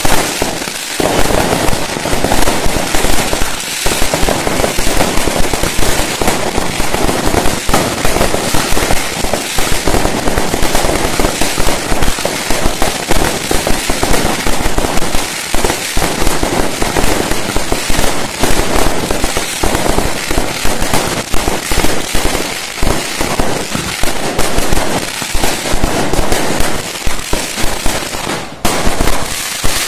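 A fireworks display going off in a dense, continuous barrage: rapid, overlapping bangs and crackling with hardly a gap, easing briefly near the end before picking up again.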